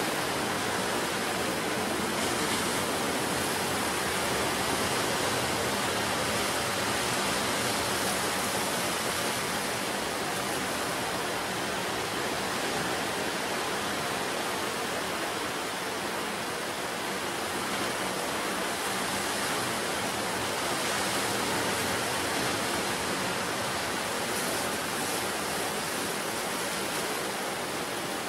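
Ocean surf breaking on the shore: a steady rushing of waves.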